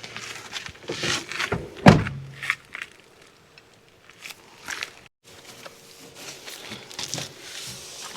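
A few sharp knocks and one heavy thump about two seconds in, then quieter handling and shuffling sounds.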